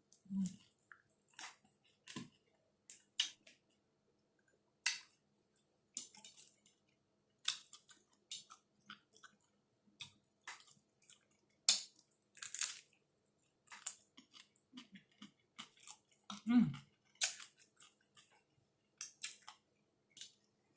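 A person chewing a mouthful of taco close to the microphone, with irregular crunchy clicks and wet mouth sounds, and a short hummed "mm" twice.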